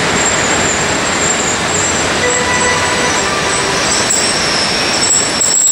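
Locomotive-hauled passenger train pulling out of a station: a steady rumble of wheels on rails, with thin squealing tones from the wheels.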